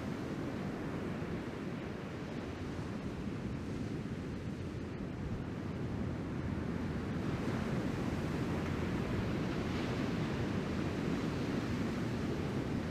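Ocean surf rushing steadily, with wind buffeting the microphone; it grows a little louder about halfway through.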